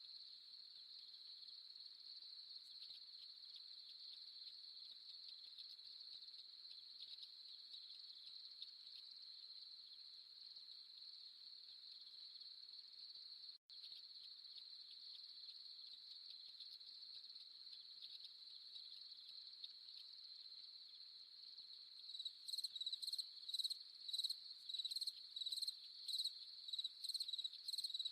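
Night chorus of crickets: a steady, faint high-pitched trill that drops out for an instant about halfway. About 22 seconds in, a louder cricket starts chirping in rapid, regular pulses over it.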